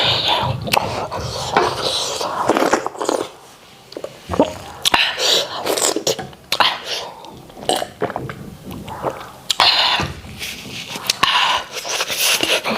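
Close-miked wet chewing and lip-smacking, with irregular sharp mouth clicks and slurps, as Nigerian starch and white soup are eaten.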